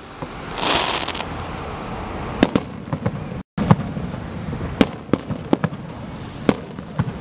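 Fireworks going off: a hissing rush about a second in, then a string of sharp bangs and cracks at irregular intervals, echoing off nearby buildings. The audio drops out briefly midway.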